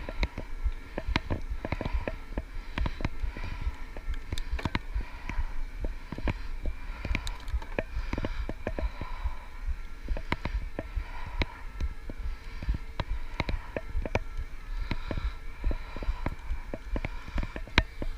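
Electric bike being ridden over a rough track: irregular knocks and rattles throughout, over a steady low rumble.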